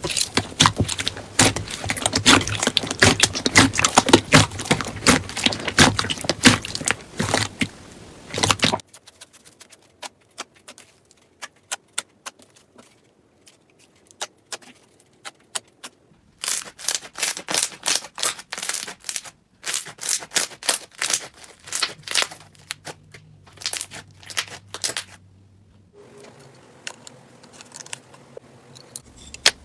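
Slime being squeezed, poked and stretched by hand, making dense runs of sticky crackling clicks and pops. The sound changes abruptly several times, with a sparser, quieter stretch of clicks in the middle.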